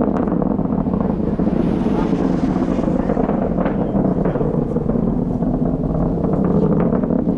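Falcon 9 rocket's nine Merlin kerosene engines heard from miles away after liftoff: a loud, continuous crackling rumble.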